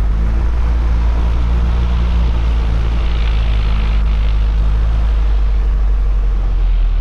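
Piper Cherokee 140's engine and propeller running steadily at low taxi power, a loud deep drone with a few held engine tones above it.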